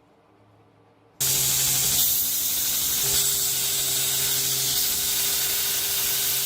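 A loud, steady hiss with a low hum under it, starting suddenly about a second in and cutting off abruptly at the end.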